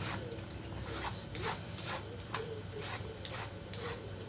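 Kitchen knife chopping carrots on a cutting board: a run of short, sharp strokes about two to three a second.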